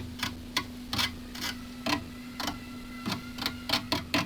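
Irregular light clicks and taps, about three a second, from a glue bottle being worked and dabbed against a plastic fairing panel during a glue-and-powder crack repair, over a steady low hum.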